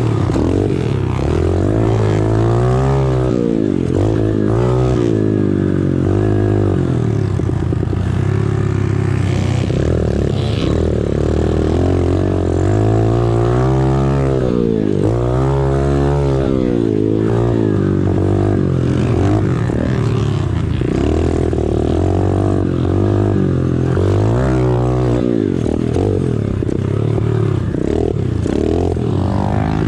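Small four-stroke single-cylinder pit bike engine being ridden hard, its pitch rising and falling over and over as the throttle is opened and closed and the gears are shifted.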